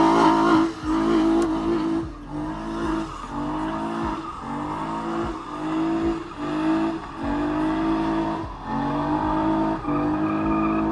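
Car engine revved again and again in short pulses, its pitch rising on each rev before dropping back, about a dozen times.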